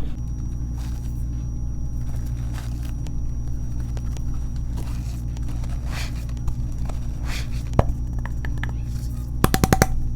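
Water-reformed gym chalk being crushed by hand: scattered crunches and crumbling, with a quick run of sharp crackles near the end, over a steady low hum.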